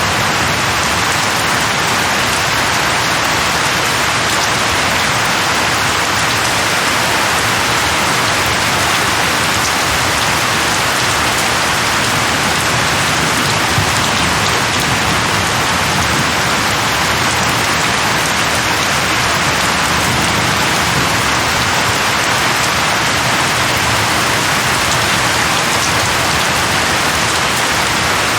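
Steady, heavy rain falling on a surface, an even hiss of drops with no change in intensity.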